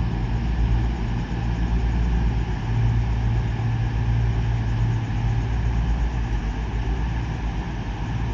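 Underfloor diesel engines of an EMR Class 222 Meridian idling at the platform: a steady, even low hum.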